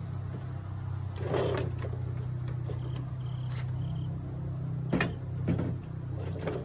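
Steady low mechanical hum with about five separate knocks and clatters, the sharpest about five seconds in, as coupled wheeled freight pallets are moved.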